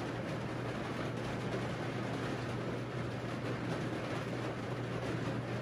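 Rain falling steadily on the roof, an even hiss, with a low steady hum underneath.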